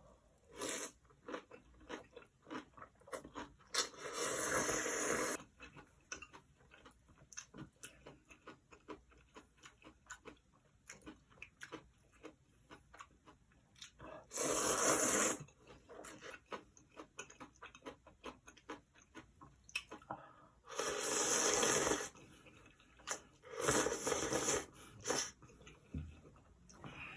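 Close-miked eating of curry ramyeon and kimchi: steady chewing with many small crunching clicks, broken four times by loud slurps, each lasting about a second.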